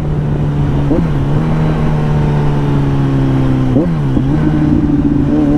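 Kawasaki Z900's inline-four engine through an aftermarket Akrapovic-copy exhaust, running at steady, easy cruising revs with the pitch slowly falling, and brief revs swings about a second in and again near four seconds.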